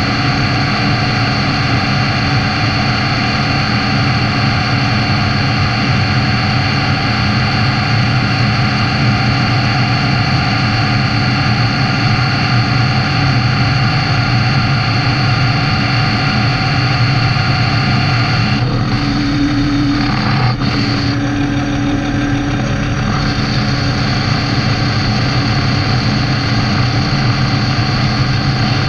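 Metal lathe running under power: a loud, steady hum and whine from the motor and gear train. The sound changes for a few seconds about two-thirds of the way through, then settles back to the same steady run.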